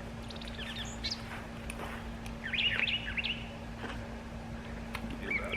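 Birds chirping in short bursts of quick notes, about half a second in, around the middle and again near the end, over a steady low hum.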